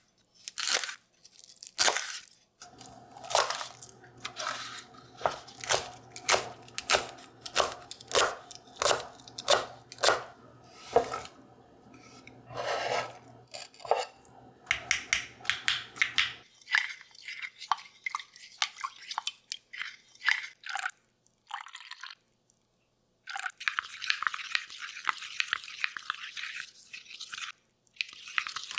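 Kitchen handling sounds: a long run of crisp knocks and crunches, about two a second at their busiest, over a faint steady hum that stops about sixteen seconds in. Near the end a steady hiss comes in.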